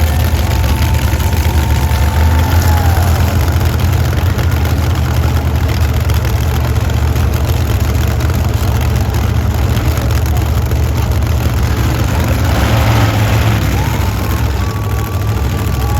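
Several methanol-injected monster truck engines running together at a steady idle just after being started, a loud, deep, even rumble.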